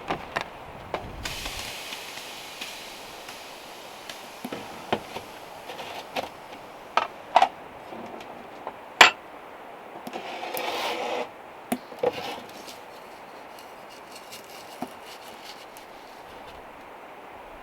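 Objects being handled: scattered knocks and clicks, the loudest about nine seconds in, with short rubbing or scraping sounds near the start and just after ten seconds.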